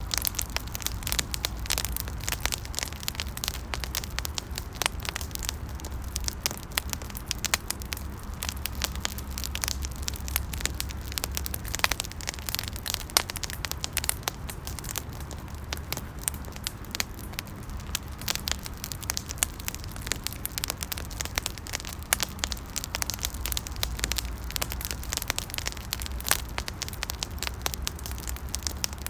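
Campfire burning with constant, irregular crackling and pops over a low rumble.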